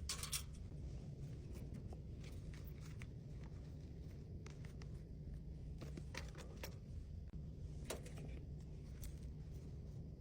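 Faint handling sounds of small items and packaging being packed: scattered light clicks and rustles, a few at the start and several more in the second half, over a steady low hum.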